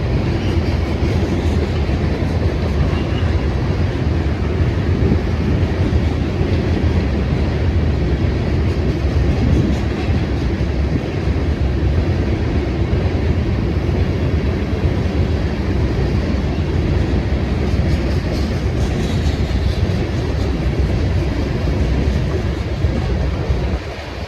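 Freight train rolling past: steel wheels on the rails making a steady, loud rumble that eases slightly near the end.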